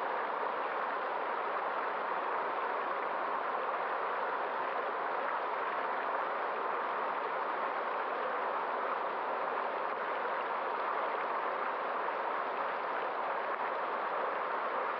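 Steady rushing and gurgling of a flowing stream, even and unbroken.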